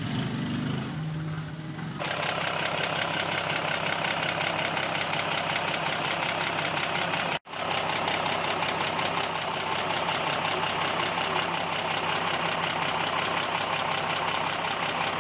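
Restored Hino six-cylinder diesel engine running steadily with a rapid, even clatter. The sound steps up abruptly about two seconds in and drops out for an instant near the middle.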